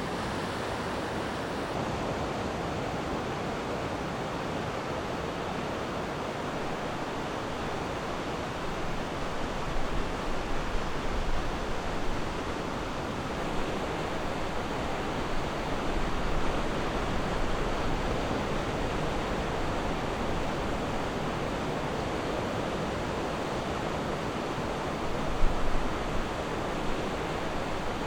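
Ocean waves breaking and washing on a beach: a steady rushing surf that swells a little every few seconds, with a brief louder surge near the end.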